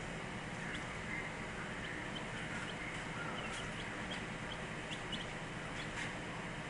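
Baby Barred Rock chicks peeping: many short, high cheeps scattered irregularly over a steady background noise.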